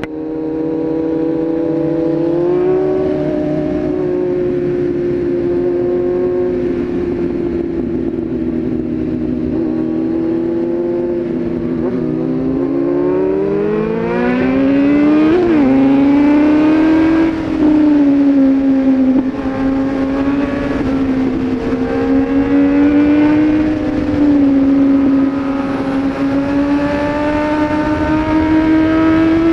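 A vehicle engine running steadily under way. The revs climb from about twelve seconds in and dip sharply at about fifteen seconds, as at a gear change, then hold steady again.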